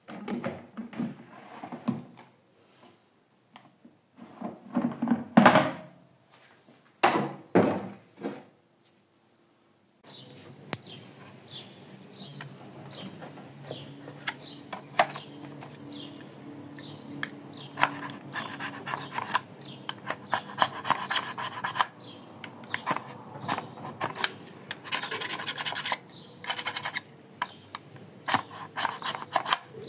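Hands rubbing and scraping on a washing machine's panel and detergent drawer in irregular strokes with small knocks. After about ten seconds a low steady hum runs underneath.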